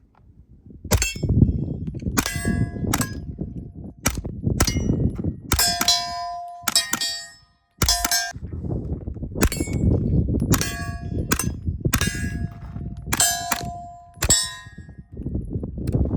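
A string of shots from a CZ Scorpion, spaced about half a second to a second apart, many of them followed by the ringing clang of a struck steel target plate.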